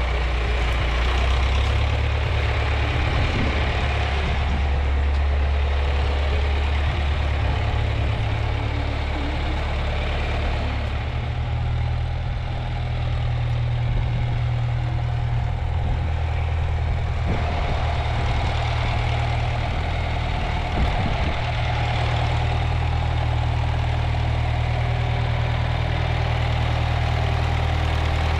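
Tractor engine running steadily, its engine speed stepping up and down a few times, with one short knock about two-thirds of the way through.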